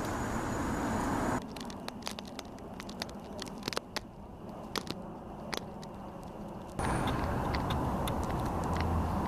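Steady rumble of distant road traffic. It gives way about a second in to a quieter stretch of scattered sharp clicks and crunches, then returns near the end.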